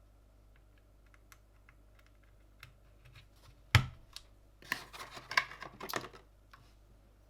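Gamakay LK67 mechanical keyboard with Gateron red linear switches being handled: scattered light clicks, one sharp knock a little under four seconds in, then a quick run of plastic key clacks.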